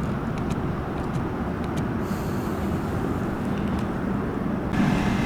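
Steady low rumble of nearby vehicle noise, with a steady hum joining near the end.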